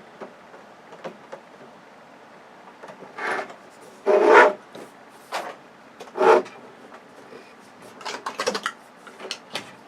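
A handful of short scraping and rubbing noises, the loudest about four seconds in, from the parts of an LCD TV being handled and pried apart.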